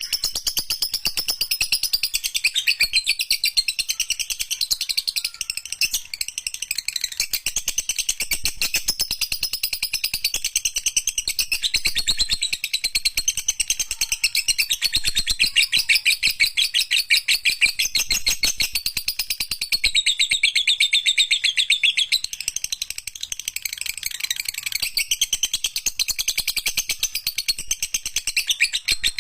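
Lovebird singing a long, unbroken 'ngekek' trill: a fast, high, chattering run of chirps repeated many times a second, with only brief dips in loudness.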